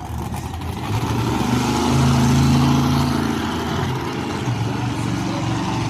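Racing stoxkart engines running hard on an oval track, the engine note shifting up and down.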